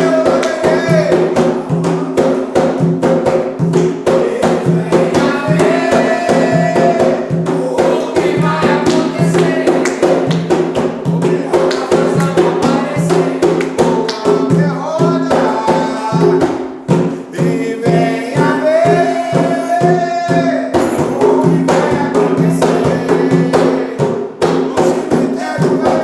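Umbanda ponto (devotional chant) sung to a fast, steady beat of drums and tambourine-like percussion.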